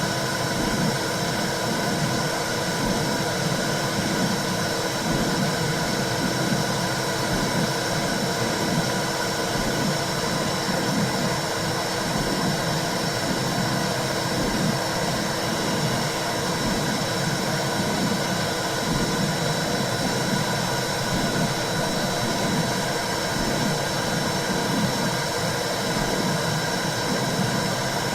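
Womb-sound white noise for soothing a baby: a steady, even whooshing hiss with a soft low pulsing repeating underneath.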